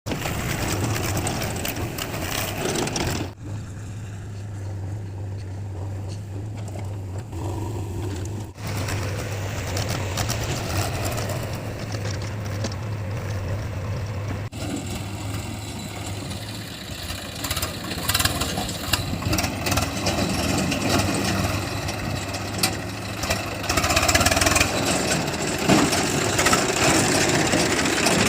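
Heavy diesel earth-moving machinery running with a steady low engine hum, broken off abruptly a few times where the footage is cut; it grows louder and rougher near the end.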